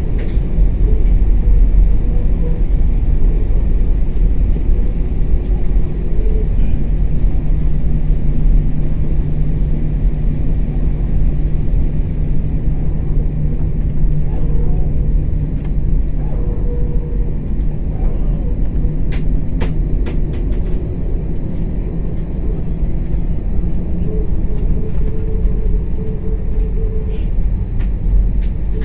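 Passenger aircraft's engines running steadily, heard inside the cabin as a loud, even low rumble with a low hum, while the plane moves on the ground before takeoff. A few light clicks come about two-thirds of the way through.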